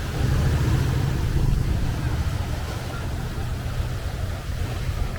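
Wind buffeting the microphone over the wash of sea waves, a heavy low rumble that swells in the first couple of seconds.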